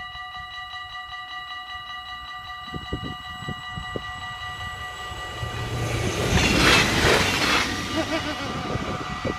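Level-crossing bells ringing steadily as a Stadler GTW diesel multiple unit approaches and passes. The passing train is loudest about seven seconds in, with the bells ringing on through it.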